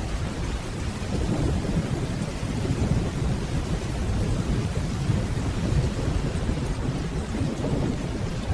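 Steady rain with the low rumble of distant rolling thunder underneath.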